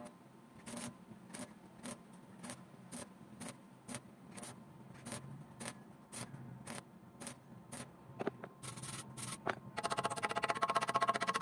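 Evenly spaced sharp ticks or taps, about two a second, with a few quicker ones near the end; then background music with a steady beat comes in.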